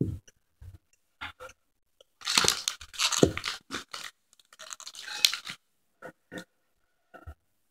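A child crunching and chewing popcorn close to the microphone, in irregular bursts that are thickest through the middle few seconds.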